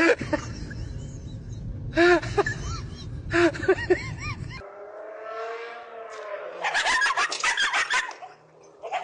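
A dog vocalising: short pitched yelps over a low rumble, then, after an abrupt change, a long wavering whine and a quick run of short sharp sounds.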